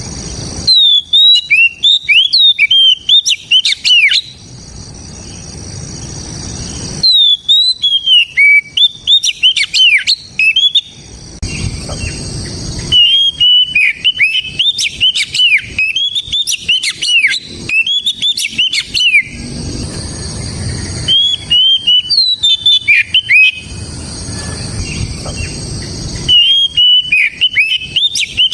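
Oriental magpie-robin (kacer) singing in full, loud voice: phrases of quick sweeping whistles and chirps lasting a few seconds each, five of them, separated by short pauses with a background hiss.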